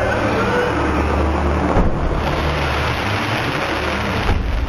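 Aerial fireworks bursting in quick succession, merging into a loud continuous rumble, with sharper bangs about two seconds in and near the end.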